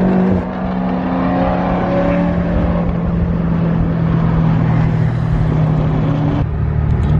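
BMW M5 engine pulling hard at full throttle during a roll race, its pitch climbing over the first couple of seconds and then holding steady over road noise; the sound changes abruptly near the end.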